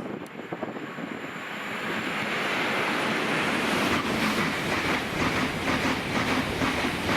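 A train approaching and passing along the track, its rumble and rush growing louder over the first few seconds. It then runs on steadily with a rhythmic clatter of wheels over the rail joints.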